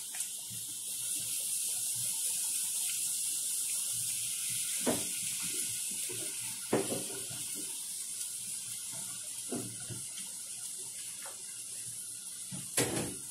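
Crunchy biting and chewing of raw bell pepper: about five sharp crunches a few seconds apart, the loudest near the end, over a steady high hiss.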